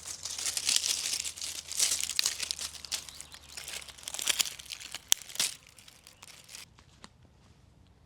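Packaging crinkling and rustling as it is handled close up, with a sharp click about five seconds in. The crinkling stops soon after, leaving a few faint ticks.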